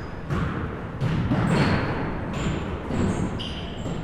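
Basketballs bouncing on a gym floor, several hard thumps a few tenths of a second to a second apart, with short high squeaks of sneakers on the court between them.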